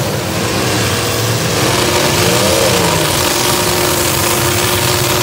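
Engines of several full-size demolition derby cars running and revving together, their pitch rising and falling as they are driven around the arena.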